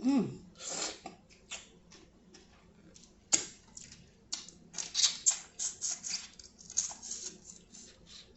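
Irregular crisp clicks and crackles of shells being cracked and picked apart by hand, busiest in the middle, after a short falling vocal "oh" at the start.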